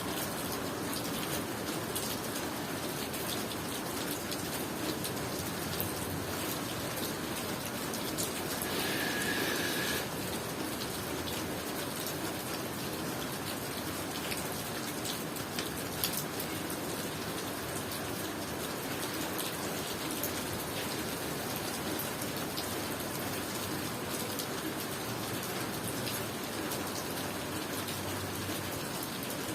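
Steady tropical rain falling and pattering on surfaces, with scattered sharper drop impacts. About nine seconds in, a brief high-pitched sound rises over the rain for about a second and a half.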